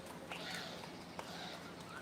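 Short bird calls with a few sharp clicks, over a faint steady hum.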